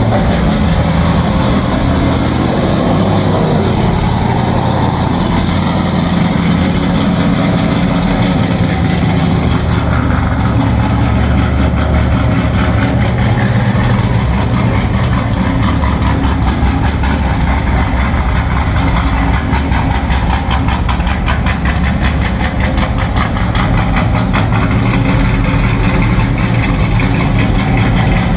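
Chevy Silverado V8 idling steadily through new long-tube headers and a stainless mandrel-bent dual exhaust with an X-pipe.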